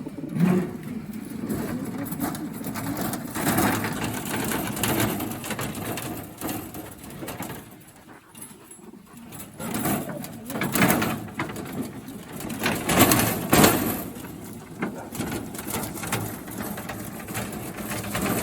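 Racing pigeons moving about in their loft or basket, with irregular rustling, wing flaps and knocks and some cooing.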